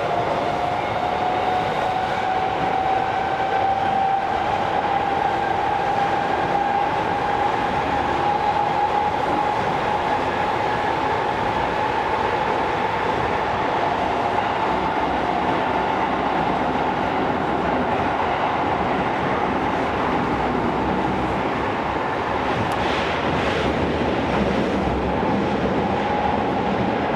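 Tokyo Metro 16000 series subway train heard from inside the car. The VVVF inverter and traction motor whine climbs slowly in pitch as the train gathers speed, then holds steady over continuous wheel-on-rail running noise. A short clatter comes near the end.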